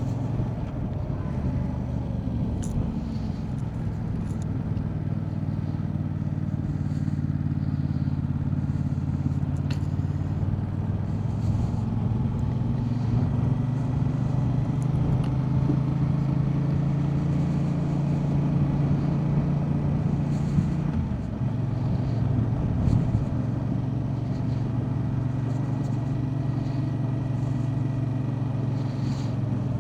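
Motorcycle engine running steadily while riding along a road, with a brief dip and change in engine tone about two-thirds of the way through.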